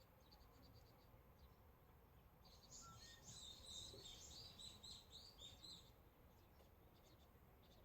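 A small bird chirping in a quick run of high notes lasting about three seconds, starting a few seconds in, over a faint outdoor hush.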